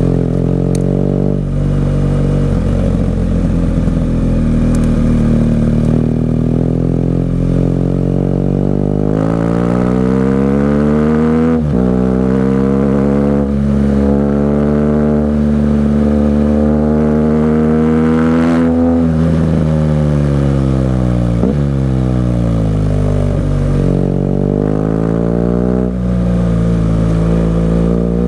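BMW R 1200 GS Adventure boxer-twin engine through an SC-Project exhaust, riding through bends. It climbs in pitch under throttle, shifts about twelve seconds in and holds a higher steady pitch. It then rolls off with a falling note and another shift, pulls up again and eases off near the end.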